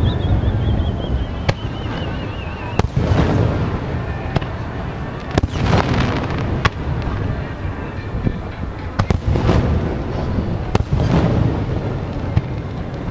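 Aerial fireworks shells bursting one after another, sharp bangs every second or two with crackling after several of them. A thin, wavering whistle slowly falls in pitch and fades out about three seconds in.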